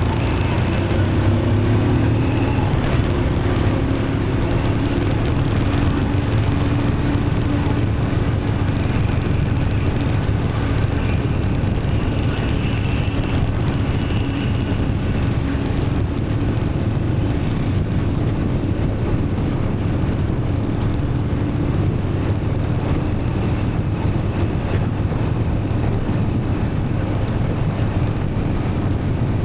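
City traffic heard from a moving motorbike: a steady engine and road rumble with surrounding motorbikes and cars. An engine note rises in the first couple of seconds, then holds steady.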